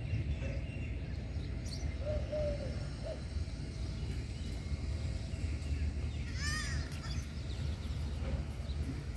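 A bird calling outdoors: a couple of faint short calls about two and three seconds in, then a louder call about six and a half seconds in, over a steady low rumble.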